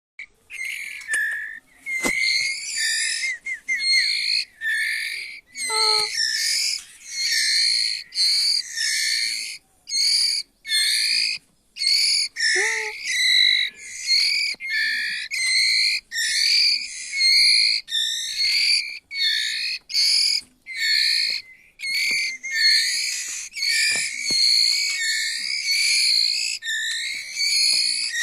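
White-rumped shama (murai batu) singing nonstop in quick, varied, high-pitched whistled phrases broken by short pauses. Two lower whistled notes come in, about six seconds and about thirteen seconds in.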